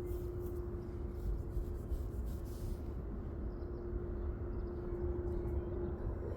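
Jet airliner engines heard from a distance: a steady low rumble with one constant hum over it.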